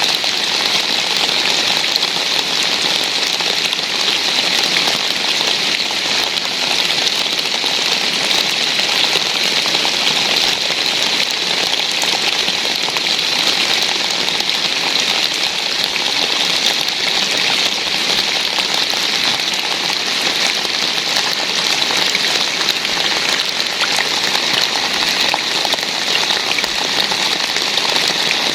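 Steady rain, a dense even hiss of many drops falling without let-up.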